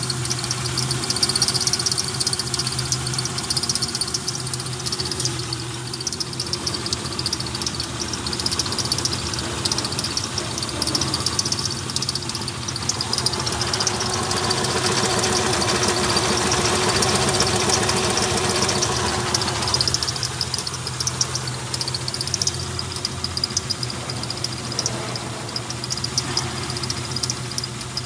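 Holden Commodore 3.8-litre V6 idling steadily, with a fast, light ticking over the engine hum; it grows louder for several seconds around the middle.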